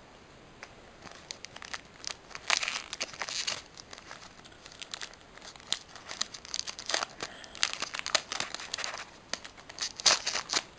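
Foil booster-pack wrapper crinkling and tearing as a Pokémon card pack is ripped open, in irregular crackly bursts, loudest about two and a half seconds in and again near the end.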